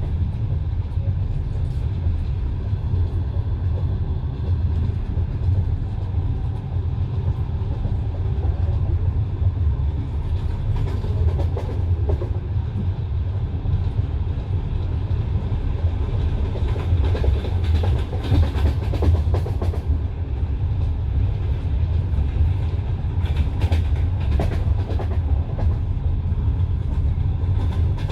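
Passenger train wheels running over the rails, heard from inside the carriage: a steady low rumble with the clickety-clack of wheels striking rail joints, the clacks coming in bunches a little past the middle and again later on.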